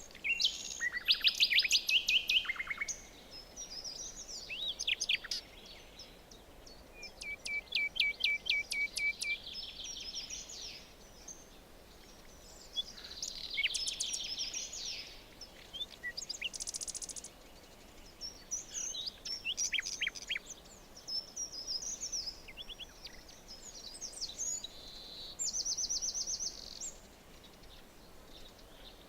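Songbirds singing in a forest: a series of separate phrases of quick repeated chirps and trills, one after another, over a faint steady background hiss.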